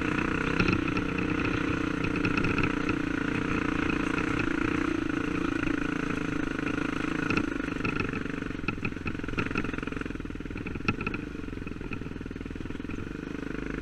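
Dirt bike engine running steadily, with scattered clattering knocks in the second half, when the engine gets a little quieter.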